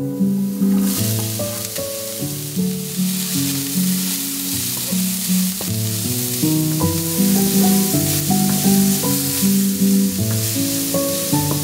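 Diced celery and onion sizzling as they fry in a pan, stirred with a wooden spatula. The sizzle starts about a second in, over plucked-string background music.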